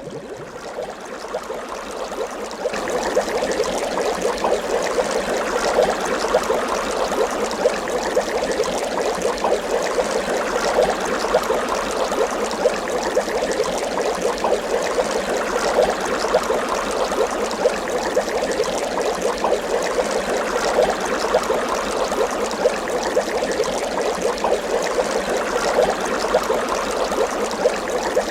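Water bubbling steadily, a dense run of small bubble pops that grows a little louder over the first few seconds.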